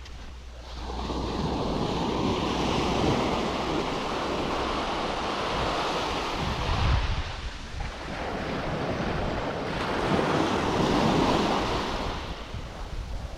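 Sea surf washing onto a sandy shore in two long swells, the first building about a second in and the second peaking near ten seconds, with wind buffeting the microphone.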